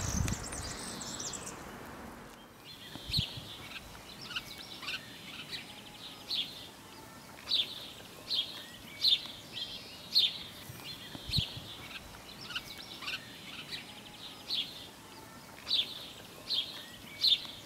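A small bird chirping: short high calls repeated roughly once a second over a faint steady outdoor hiss, after a broader rush of noise that fades about two seconds in.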